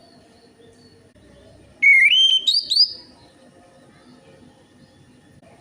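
Orange-headed thrush (anis merah) singing a short whistled phrase about two seconds in: a clear note that steps upward, followed by two quick rising whistles. It is played as a lure recording to prompt a caged thrush to sing.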